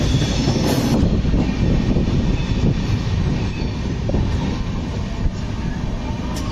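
Steady rumble and wheel-on-rail running noise of a passenger train's sleeper coach rolling out of a station.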